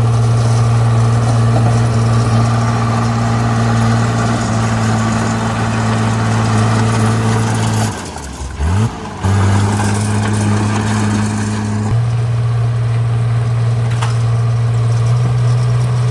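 Komatsu D37P bulldozer's diesel engine running steadily. About halfway through, the sound drops away for about a second while the pitch climbs, then the steady note returns. The tone shifts slightly again about three-quarters of the way through.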